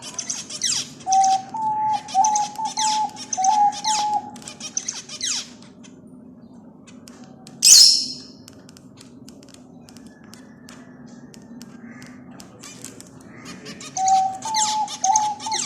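Birds calling in bouts: quick high calls sweeping steeply downward, mixed with shorter stepped lower notes. About eight seconds in comes one loud, sharp squawk, then a quieter stretch before the calling starts up again near the end.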